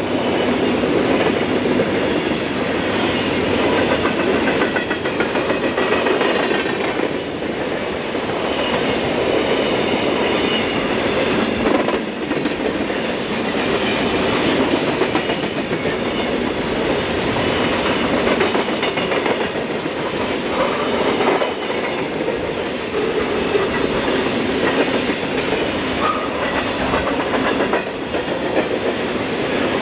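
Coal train's gondola cars rolling steadily past: a continuous rumble of steel wheels on rail with a rhythmic clickety-clack over the rail joints.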